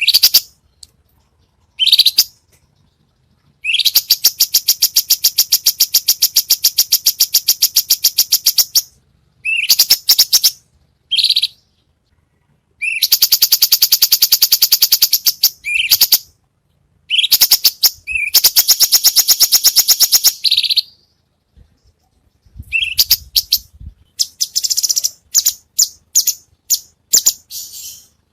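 Songbird song from a masteran training recording: long, fast, high-pitched trills of rapidly repeated notes, each lasting a few seconds, broken by short chirps and whistles and brief pauses.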